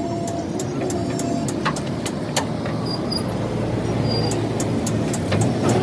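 A motor vehicle engine running steadily, with scattered sharp clicks or taps over it.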